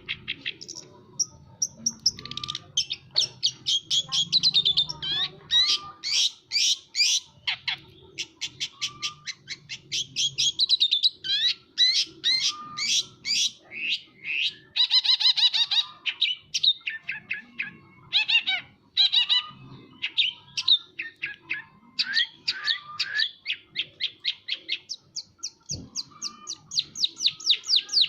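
Long-tailed shrike singing continuously: fast runs of sharp, high chirps and trills, each run of many repeated notes, broken by brief pauses.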